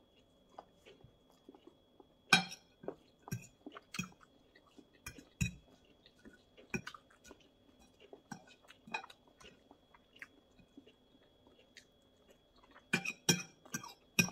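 Close-miked chewing and mouth sounds of a person eating flatbread pizza and salad, with scattered sharp clicks and the odd clink of a fork on a plate. The sounds grow busier and louder near the end.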